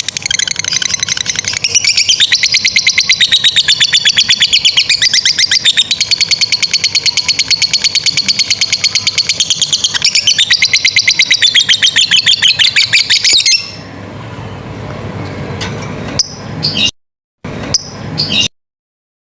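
Lovebird giving a long 'ngekek' chatter: a rapid, unbroken string of high, harsh notes that stops abruptly about 13 seconds in. After it, only faint background, with the audio cutting out briefly twice near the end.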